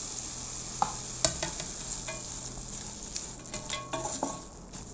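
Chicken with freshly added onion, capsicum and carrot sizzling in a hot oiled pan, a steady frying hiss. A stirring utensil clinks and knocks against the pan now and then, more often in the second half.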